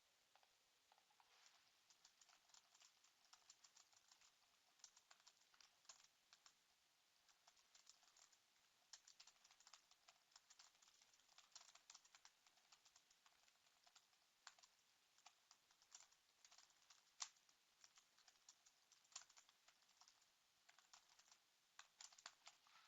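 Faint typing on a computer keyboard: irregular runs of soft key clicks, with a few louder key presses.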